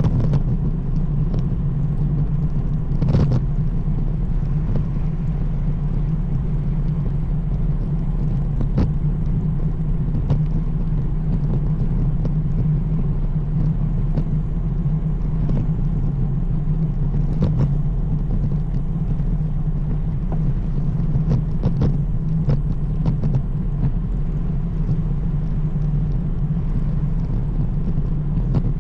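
Steady low rumble of a road bike rolling along pavement, tyre and wind noise on the camera, with occasional short clicks or knocks from bumps in the road.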